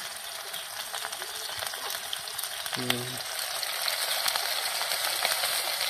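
Sliced onions frying in hot mustard oil in a kadhai: a steady sizzling hiss thick with fine crackles.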